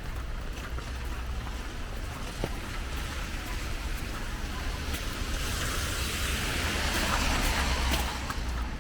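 A car passing on a wet, slushy street: its tyre hiss swells from about five seconds in and drops away near the end. Underneath are a steady low rumble of wind on the microphone and faint ticks of footsteps.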